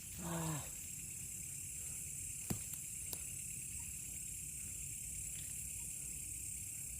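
Steady, high-pitched chorus of night insects. There is a brief low voiced hum near the start and a single click about two and a half seconds in.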